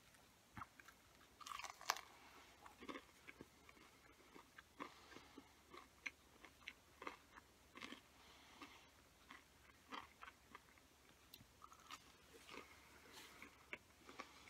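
A person chewing food with the mouth closed: faint, soft crunches and small mouth clicks at irregular intervals.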